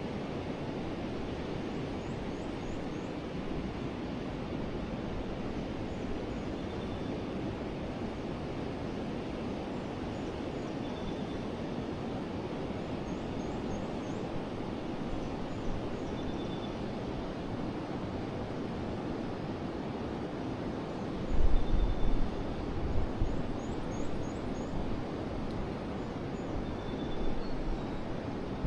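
A river flowing steadily over its bed, with forest birds calling: a short high note repeating every few seconds, and three times a quick run of four high chirps. About three quarters of the way through, a brief spell of low rumbling buffets is the loudest thing.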